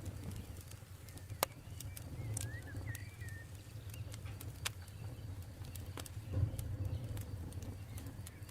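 Campfire burning with a steady low rumble and occasional sharp crackles and pops, three of them standing out. A bird chirps briefly a couple of seconds in.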